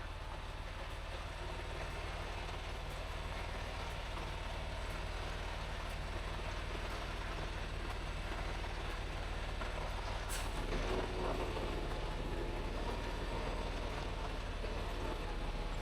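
Semi-truck running down the road, heard as a steady low engine and road hum, with a sharp click about ten seconds in.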